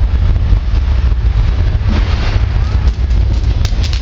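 Earthquake special effects: a heavy, steady low rumble with loud rushing noise over it, with a few sharp clicks near the end.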